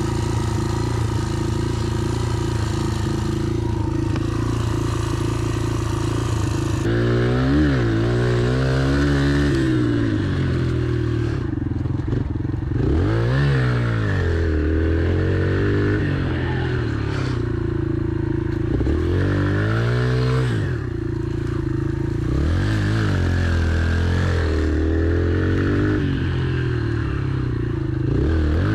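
Yamaha TT-R pit bike's four-stroke single-cylinder engine being ridden, revving up and easing off over and over, about every five or six seconds, as the throttle is worked through the turns.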